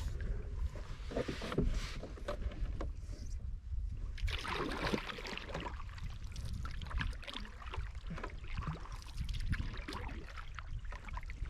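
Canoe being paddled in toward shore: irregular paddle strokes splashing and swishing in the water, the biggest about four seconds in, over a steady low rumble.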